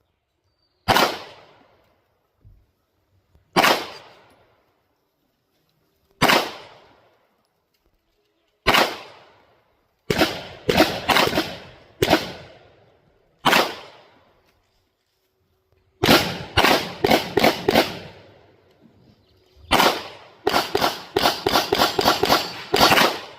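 Canik TTI Combat 9mm pistol being fired. It starts with single shots about two and a half seconds apart, then goes to quicker strings of shots, the fastest run near the end.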